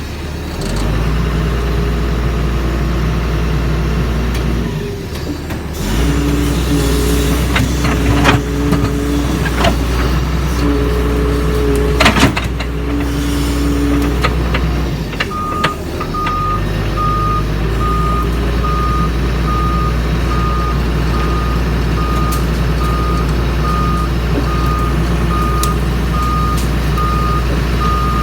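Doosan DX140 excavator's diesel engine running steadily under load, with a hydraulic whine coming and going and a few sharp clanks in the first half. About halfway through, its travel alarm starts beeping steadily, about once a second, as the machine moves.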